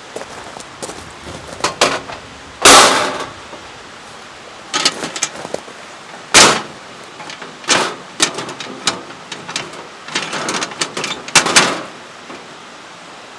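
A series of irregular knocks, clatters and short scraping or rustling sounds. The loudest is a brief rushing clatter about three seconds in.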